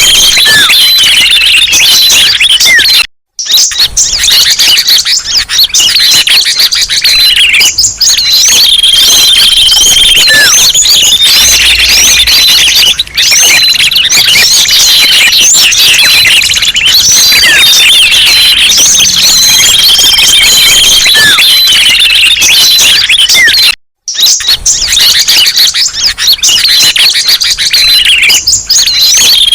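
Bird-lure recording of many small songbirds chirping and calling at once, a dense, loud, continuous tangle of short high chirps and whistles. It breaks off for an instant about 3 seconds in and again near the end, then the same loop starts over.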